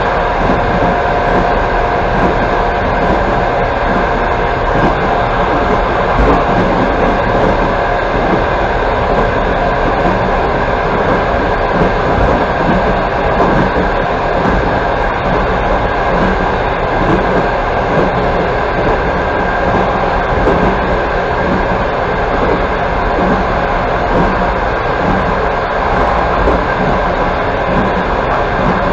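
Passenger train running at speed, heard from inside a carriage: a steady rumble of wheels on rail with a faint clickety-clack.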